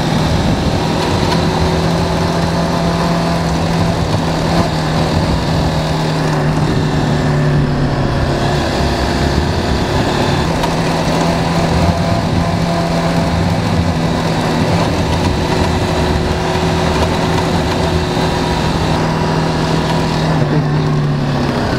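BMW G 310 GS single-cylinder motorcycle engine running at a steady cruise on a gravel road, with wind noise over it. The engine note eases off briefly about nine seconds in, then picks up again.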